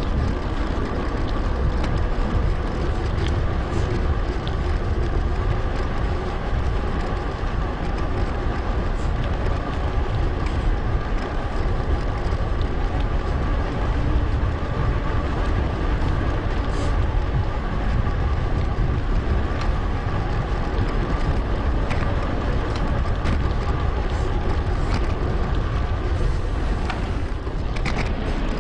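Wind buffeting the microphone of a bike-mounted action camera while cycling, a dense low rumble, with a steady hum and faint clicks from the tyres and drivetrain. The ride noise is sped up.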